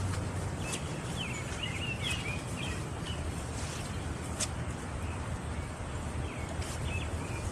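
Birds chirping in short, quick high notes, mostly in the first few seconds and again briefly near the end, over a steady background hiss.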